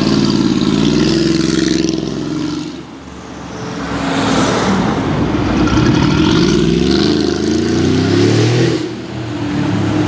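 Car engine of a Mercedes G-Class SUV accelerating, its pitch climbing in several rising sweeps as it pulls away, with a brief lull about three seconds in.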